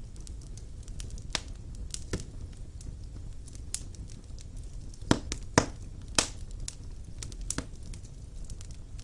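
Wood fire burning in a stone fireplace: a steady low rumble of flame with scattered sharp crackles and pops, the loudest a pair about five seconds in.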